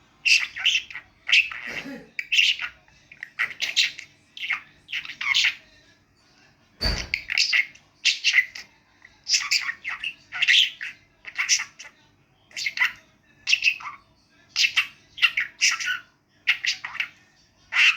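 Pet budgerigar chattering in quick, high, scratchy bursts, about one to two a second, in its mimicry of talk. There is a brief low thump about seven seconds in.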